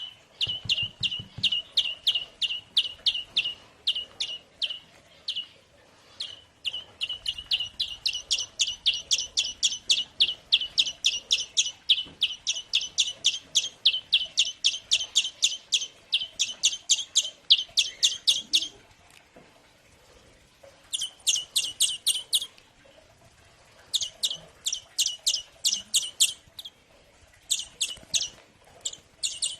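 A tiny greenfinch chick giving rapid, repeated begging chirps, about five a second, in long runs broken by short pauses: a nestling begging to be fed.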